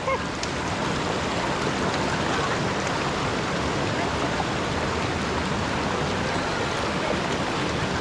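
Water of a forest stream rushing steadily over rocks near a small waterfall.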